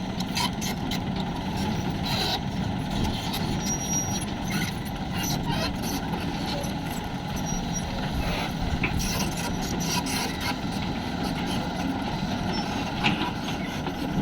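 Heavy truck's engine running steadily, with many short scattered rattles and crunches over it.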